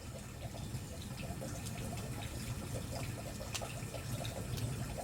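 Wood campfire burning: a steady low rumble of flames with scattered crackles and small pops from the burning firewood.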